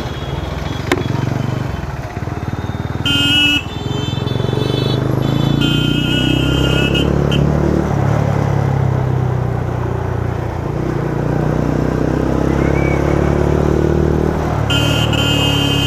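Kawasaki ZX-10R inline-four engine running steadily while riding in traffic. Other vehicles' horns honk about four times, the longest about a second and a half, one near the end.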